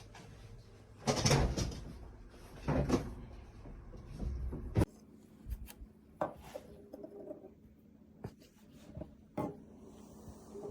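Rustling and scraping handling noises with a series of knocks and bumps, some sharp, like things being moved around against wood.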